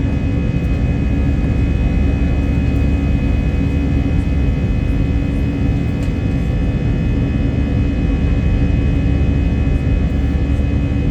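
Airliner jet engines running at steady power during takeoff: a loud, even low rumble with steady whining tones above it.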